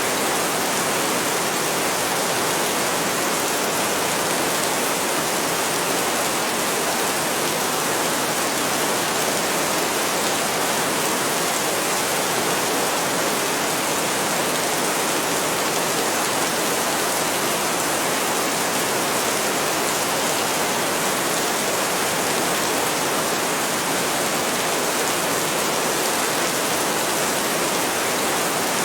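Heavy rain falling steadily: a dense, even hiss with no thunder and no change in level.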